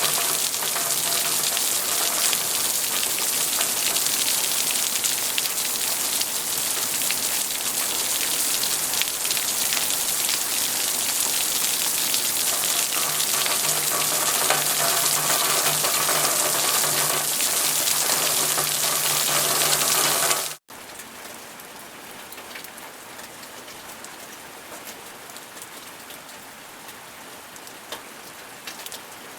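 Steady rain falling, a dense even hiss. About two-thirds of the way through it cuts off abruptly and gives way to a much quieter, softer rain.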